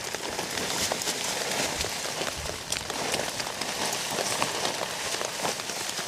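Steady rain falling, an even hiss with many separate drop hits scattered through it.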